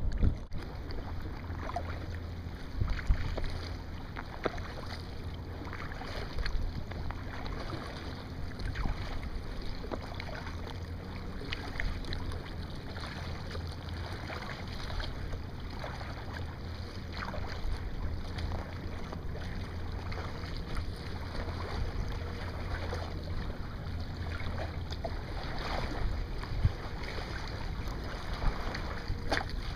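Kayak paddle dipping and splashing in choppy sea water, with a steady low wind rumble on the microphone.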